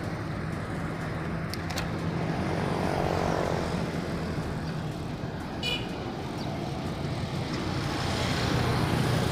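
Street traffic noise heard from a moving bicycle, with motor vehicles running and one passing about three seconds in. A brief high chirp sounds just before the middle.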